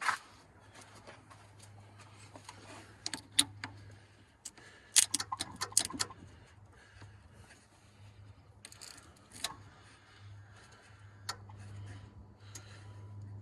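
Scattered light clicks and clinks of hand work on the truck, densest about three to six seconds in, over a faint steady low hum.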